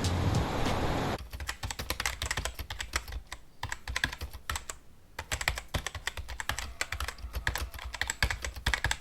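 Background music cuts off about a second in. It gives way to rapid, irregular clicking and tapping like typing on a keyboard, with a short lull in the middle.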